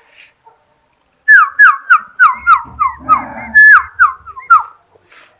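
A sooty-headed bulbul (trucukan) calling close by: a loud run of about ten clear, downward-slurred whistled notes at roughly three a second, with one longer note near the end.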